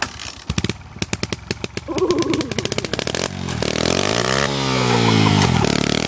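Pit bike engine being started: it sputters with irregular pops, then catches about three seconds in and revs up and down.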